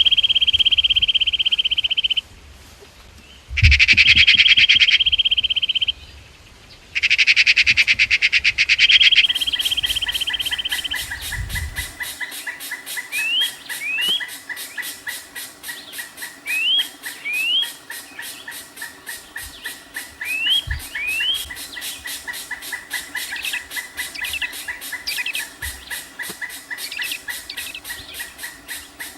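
Wild birdsong. In the first ten seconds come loud, sustained high buzzy trills that start and stop abruptly. After that a steady, fast pulsing chorus with a continuous tone fills the background, and a bird repeats short rising chirps, often two close together.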